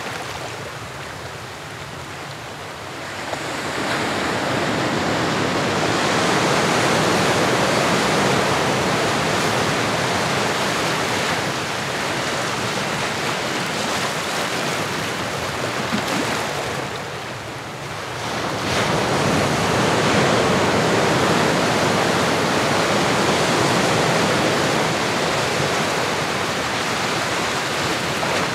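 Ocean surf: a continuous rush of waves washing in and drawing back, swelling louder a few seconds in, easing into a brief lull and surging again about two-thirds of the way through.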